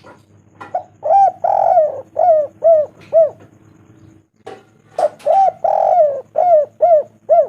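Spotted dove (tekukur) cooing: two phrases of five or six rounded coos each, the second coo of each phrase longer and drawn out.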